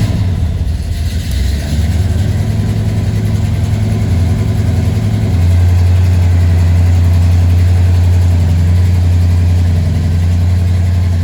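Supercharged 454 Chevy big-block V8 running just after start-up, a loud, heavy idle. About five seconds in, the low rumble settles into a steadier, stronger drone.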